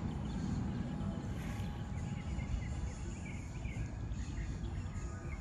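Birds chirping, from about three seconds in, over a steady low rumble.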